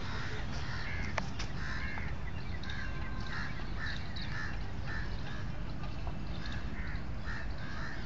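Birds calling: a run of short, repeated calls, about two a second, over a steady low background rumble.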